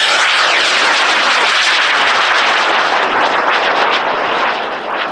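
High-power rocket motor burning at liftoff: a loud, steady roar that starts suddenly on ignition and begins to fade near the end.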